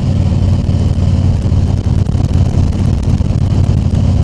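2020 Harley-Davidson Tri Glide Ultra's V-twin engine running steadily on the road, with wind noise on the helmet microphone.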